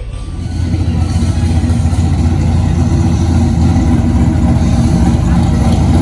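A car engine idling loudly. The sound swells over the first second and then holds steady, and it sounds mean.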